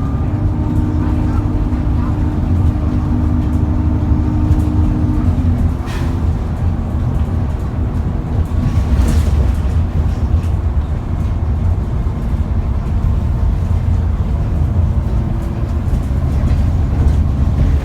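Cummins ISBe 6.7-litre diesel of an ADL Enviro400 double-decker bus running under way, a steady deep rumble with a hum that fades out about five and a half seconds in. Two short clicks come later.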